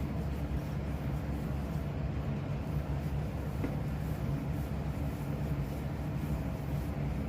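Steady low machine hum that neither rises nor falls, with one faint click about three and a half seconds in.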